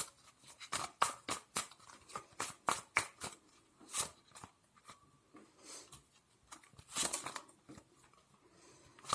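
Tarot cards being shuffled and handled: a run of crisp clicks and snaps for the first few seconds, a lone snap about four seconds in, and another short flurry around seven seconds.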